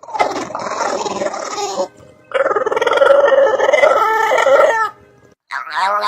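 Dog making drawn-out, crowing-like vocal calls: two long ones with a short break between them, and a third, wavering one starting near the end.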